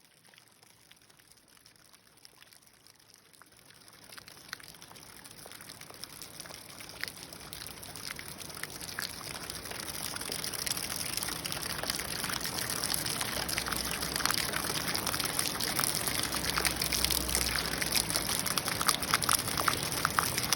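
Heavy rain falling, with water running and pouring, a dense hiss full of small drop clicks that grows steadily louder over the first ten seconds or so and then holds.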